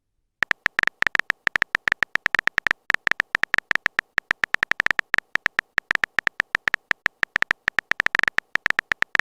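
Typing sound effect for a chat message: a fast, uneven run of short, slightly beeping key taps, several a second, starting about half a second in.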